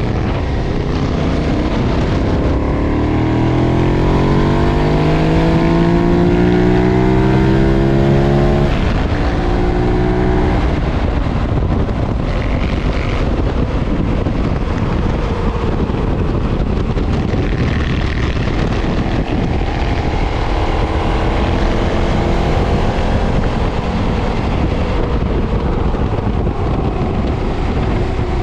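KTM 990's stock-exhaust V-twin engine pulling hard under open throttle, its revs climbing for several seconds. There is a break with a gear change about nine seconds in, and another rising pull later on. Wind rushes over the helmet-mounted camera's microphone throughout.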